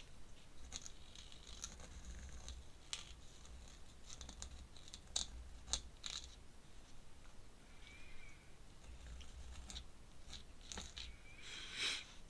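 Pen scratching on paper in short strokes, with a few sharp ticks and a longer, louder stroke near the end.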